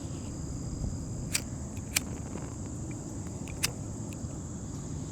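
Steady high-pitched insect chorus over a low, even rumble, with three or four sharp clicks spread through.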